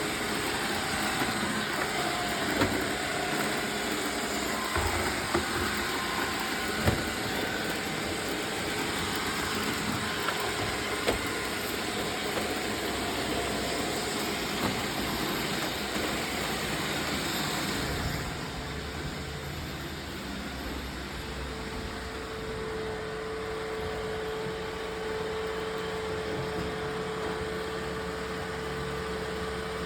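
Roomba robot vacuum cleaners running with a steady whirring, with a few sharp knocks in the first half. About two-thirds of the way through the noise drops, and soon after a steady hum sets in.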